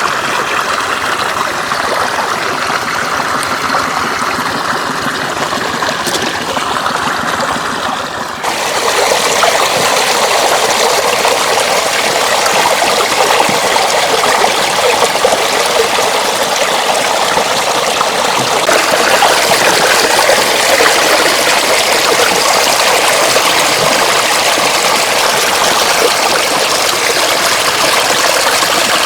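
Floodwater flowing steadily over a road, a continuous rush of running water; the sound shifts abruptly about eight seconds in, becoming louder and brighter.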